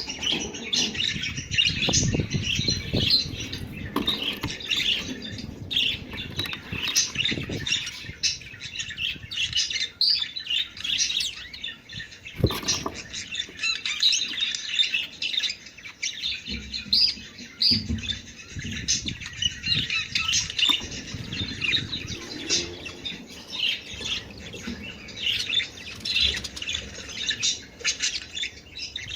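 A flock of budgerigars chattering and warbling without pause, many quick chirps overlapping: the busy flock chatter played as a mating call to stimulate breeding. A few low thumps and rustles come through underneath.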